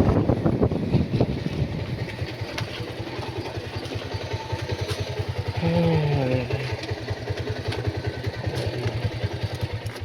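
Motorcycle engine running with an even, rapid beat of firing pulses, gradually getting quieter as it eases off. A brief falling tone sounds over it about six seconds in.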